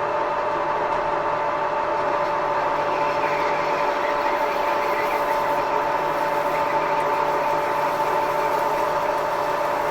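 Workshop machine tool running steadily after spinning up, its motor and drive giving an even whine with two steady tones over a mechanical hum.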